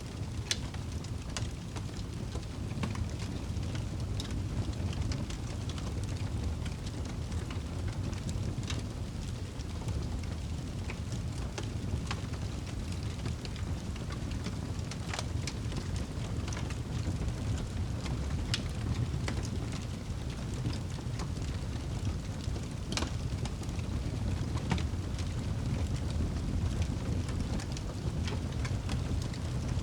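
Wood fire burning in a fireplace: a steady low rumble with irregular crackles and pops throughout, a few sharper snaps standing out.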